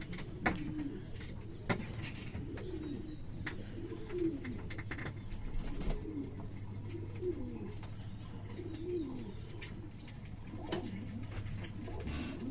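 Birds cooing, with many short, low, curving calls repeating one after another. A few sharp clicks and a steady low hum sit underneath.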